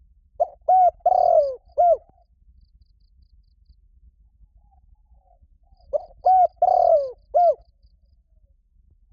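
Spotted dove cooing: two song phrases about five seconds apart, each a run of four or five short coos with a longer coo that falls in pitch near the middle.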